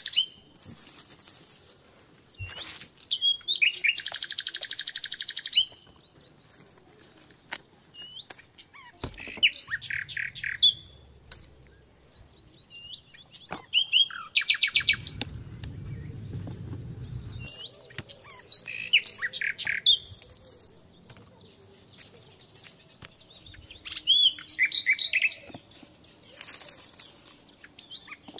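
A songbird singing short phrases of rapid trilled and chirping notes, one phrase every few seconds.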